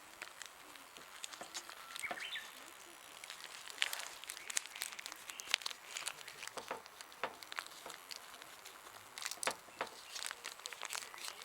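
Irregular crinkling and crackling clicks, with a bird chirping a few times in the background.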